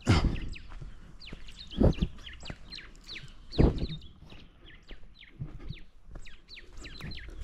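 Small birds chirping over and over, each note a quick high downward slide, several a second. Three louder low thumps break in, at the start, about two seconds in, and about three and a half seconds in.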